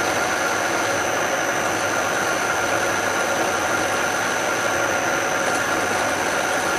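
A machine spindle running steadily while a drill bit cuts into stainless steel, giving an even machine noise with a faint steady whine.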